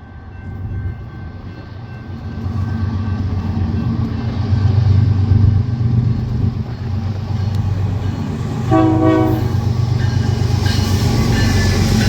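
Train approaching with a steady low locomotive rumble that builds, a short blast of the locomotive horn about nine seconds in, then a rising hiss of wheels on rail near the end.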